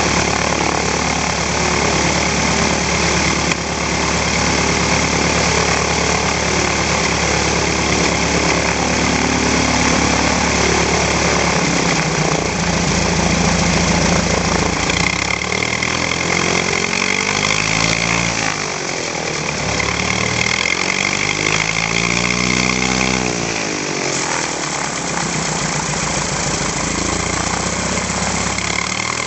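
UTVA 75 light aircraft's four-cylinder Lycoming engine running through its exhaust, a steady, loud note. From about halfway through, the tone shifts and sweeps up and down.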